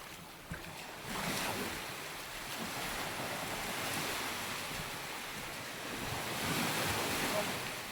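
Sea waves washing onto a sandy beach, swelling about a second in and again near the end, with wind buffeting the microphone.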